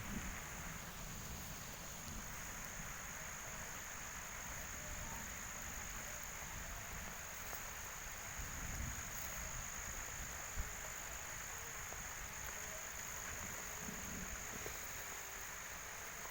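Steady high-pitched drone of insects over the even hiss of falling rain, with low rumbling gusts of wind on the microphone and a single knock about ten seconds in.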